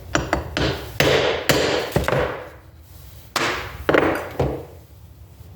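Several hammer taps driving a part of a Toyota 4A-FE distributor a little further into place, each strike followed by a ring that dies away over about a second.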